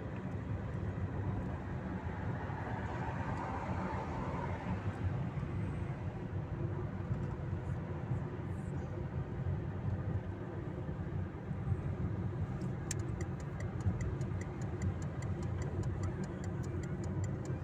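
Car in motion, heard from inside the cabin as a steady low road and engine rumble. About thirteen seconds in, a fast, even ticking starts, like the turn-signal indicator clicking.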